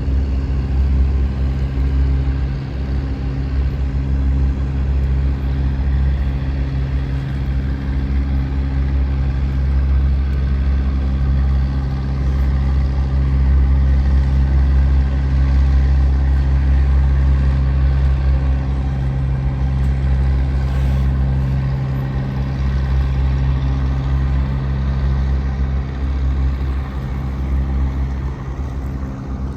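Diesel engine of a Japanese bottom-trawl fishing boat running steadily, a deep drone at an even pitch.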